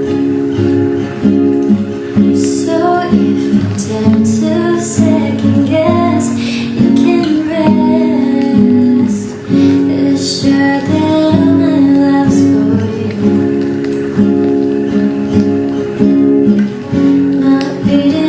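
Acoustic guitar strummed in chords with a woman singing a melody over it.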